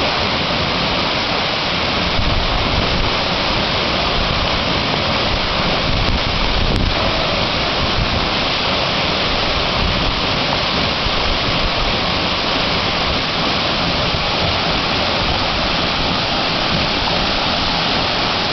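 Waterfall: falling water rushing loudly and steadily.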